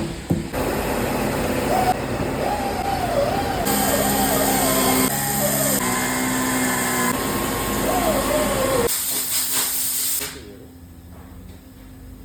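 A loud, steady hiss with a wavering pitched sound over it in places, cutting off about ten seconds in.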